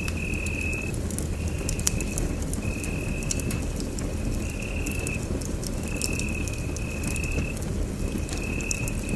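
Wood fire burning in a fireplace, a steady low rumble with scattered crackles and pops. Over it a high, even chirp repeats about once a second, each lasting about half a second.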